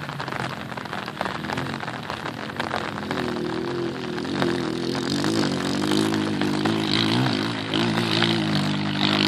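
Motorcycle engines running over a steady background noise. From about three seconds in, one engine note holds fairly steady, wavering slightly in pitch.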